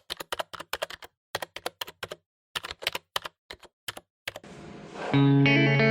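Computer keyboard typing: irregular runs of rapid key clicks with short pauses, for about four seconds. Then a rising swell of noise, and electric guitar music with distortion starts about five seconds in.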